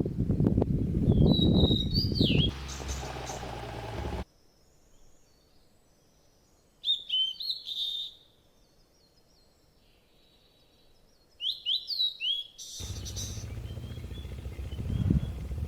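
Small birds calling in short, quick chirps that sweep downward, heard in several bunches. A loud low rumble covers the first few seconds, stops abruptly, and returns abruptly about 13 seconds in.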